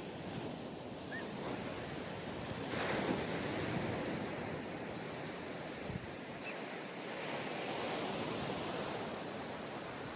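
Waves breaking and washing up a sandy beach, a continuous rush that swells as a wave comes in about three seconds in and again near the end. Some wind on the microphone.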